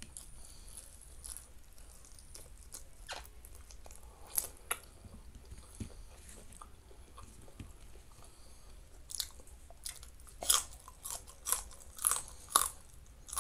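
Mouth sounds of eating by hand: soft chewing and small clicks, then from about nine seconds in a run of sharp crunches, roughly two a second, as a raw green bean is bitten and chewed.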